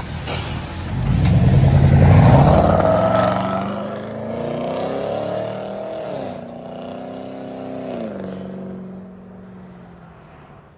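2019 GMC Sierra's 5.3L V8 through straight-piped true dual exhaust, revving up hard about a second in, then the pitch falls back in steps and settles into a steadier drone that fades out near the end.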